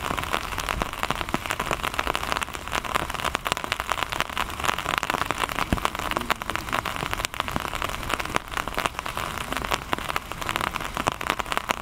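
Steady rain pattering, with many sharp drops ticking close by.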